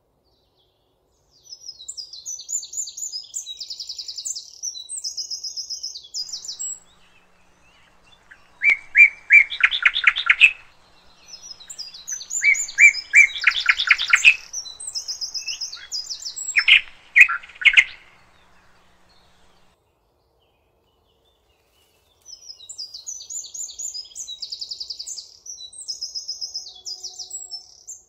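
Songbirds singing in separate phrases of fast, trilled notes. High, thin trills come near the start and again near the end, and lower, louder trilled phrases come in the middle. Short near-silent pauses fall between them.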